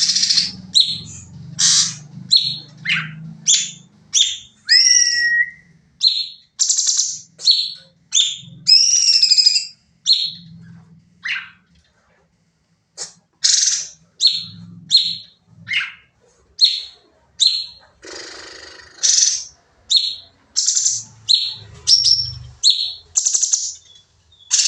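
Cucak cungkok singing in rapid, insistent bursts of short, loud, high chirps, with a few gliding whistled notes mixed in.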